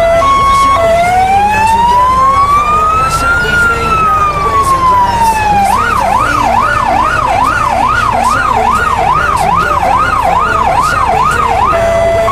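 Fire engine's electronic siren running through its tones. It opens on a brief two-tone hi-lo, then gives one slow wail that rises and falls, then a fast yelp of about two and a half sweeps a second, and settles on a steady low note near the end.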